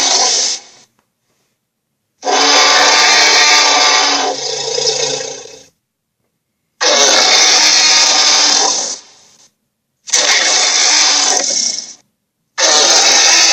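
Dragon roar sound effects, harsh and noisy, played one after another. The tail of one roar ends just after the start, then four more roars of two to three seconds each follow, each starting suddenly and separated by a second or so of silence.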